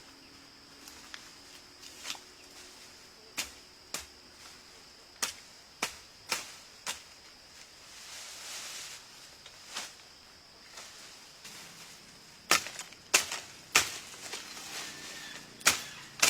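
Tool blows on wood: about a dozen sharp, irregular chopping knocks, the loudest three in a quick run about three-quarters of the way in, over a faint steady high-pitched whine.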